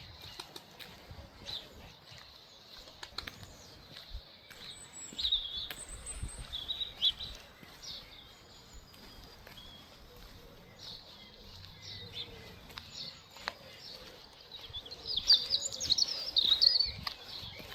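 Songbirds chirping: short bursts of high chirps about five seconds in, then a busier, louder run of song near the end.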